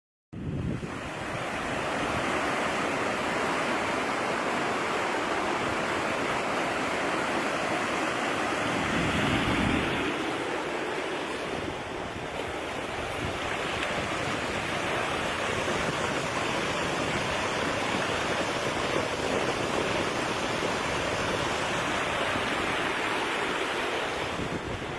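Steady rushing of water that starts abruptly just after a moment of silence and keeps an even, noisy roar throughout.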